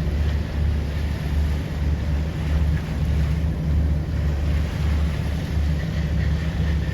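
Wind on the microphone aboard a boat: a loud, low rumble that throbs about every half second, with a faint wash of water beneath it.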